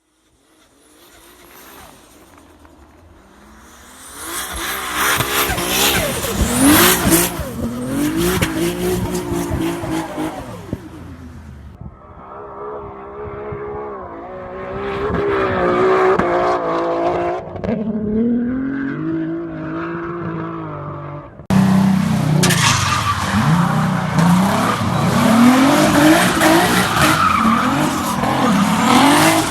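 BMW E30 engines revving hard through the exhaust, the revs climbing and dropping again and again, with tyre squeal. Several clips are cut together, changing abruptly about twelve seconds and about twenty-one seconds in; it starts quietly and turns loud about four seconds in.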